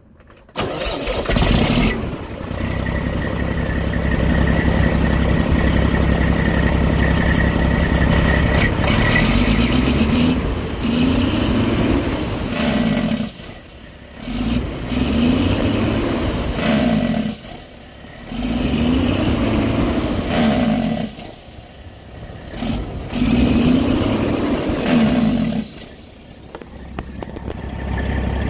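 Straight-piped Detroit Diesel Series 60 12.7-litre inline-six diesel starting about half a second in and idling. From about ten seconds in it is revved up and let fall back four times.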